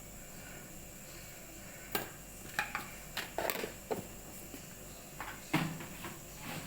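Kitchen utensils clattering during cooking: a series of irregular knocks and clinks, the loudest about five and a half seconds in.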